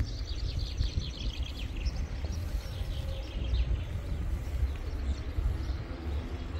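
Small birds chirping, with many rapid calls in the first few seconds and scattered ones after, over a steady low rumble.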